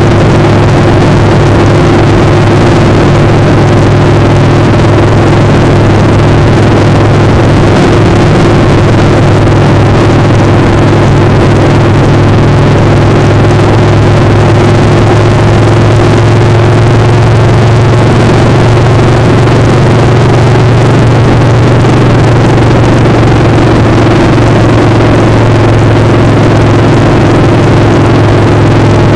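Motorcycle engine running at a steady pitch, with loud wind rushing over the microphone.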